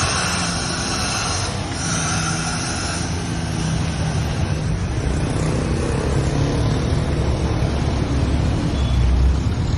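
Steady motor vehicle and road traffic noise, with a low engine hum held throughout.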